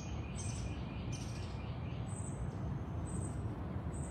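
Birds calling in the trees overhead: a rapid run of chirps in the first couple of seconds and a high, thin chirp repeating about once a second, over a steady low background rumble.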